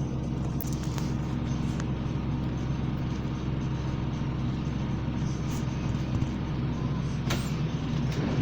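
A MAZ-206 city bus on the move, heard from inside: its Mercedes-Benz OM 904 LA diesel engine drones steadily, with a few short, sharp rattles from the body.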